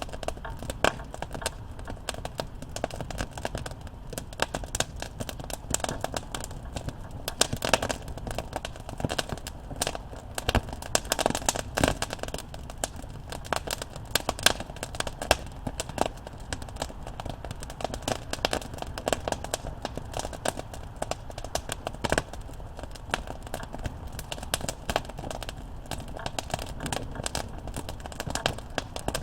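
Wood campfire crackling and popping, with many irregular sharp snaps over a steady low rumble of burning.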